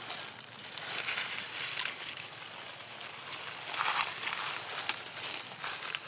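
Irregular rustling and crackling, coming and going in uneven spells, loudest about four seconds in.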